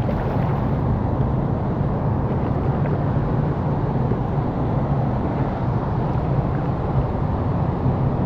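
Steady, loud rush of water pouring over a river weir, a constant roar with no breaks.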